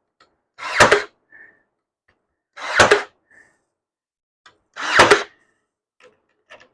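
Ryobi P322 18V cordless brad nailer firing three brads into cedar pickets, one shot about every two seconds, each a short sharp burst.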